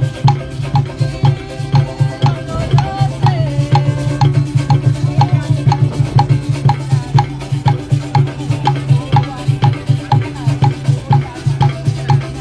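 Live drum music: a steady, driving beat of about three drum strokes a second, with other percussion and pitched instruments or voices over it.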